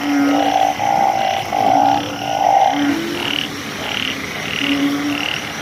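A chorus of frogs calling after fresh rain, among them banded bullfrogs. Many calls overlap, each about half a second long and repeated over and over. A lower, steady-pitched call keeps recurring, and a series of higher calls is loudest in the first few seconds.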